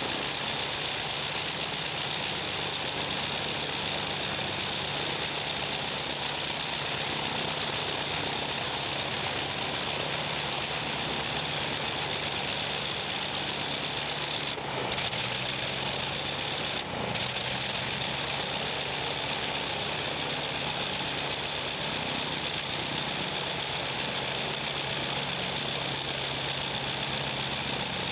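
Avro 504K biplane's rotary engine running steadily on the ground during an engine run. Twice, about halfway through, the sound drops out for a fraction of a second before picking up again.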